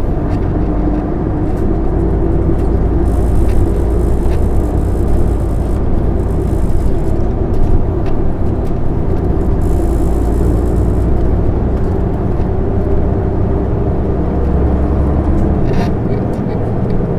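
Isuzu Erga city bus's 6HK1 turbo-diesel inline-six running under way, heard from inside the cabin as a steady low drone with road noise. Two short stretches of hiss come in higher up, about three and ten seconds in.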